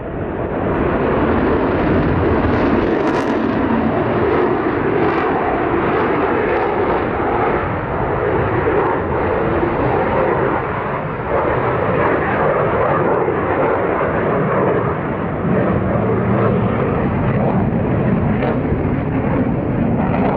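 F-22 Raptor's twin Pratt & Whitney F119 turbofan engines running, a loud, steady jet noise that holds without a break.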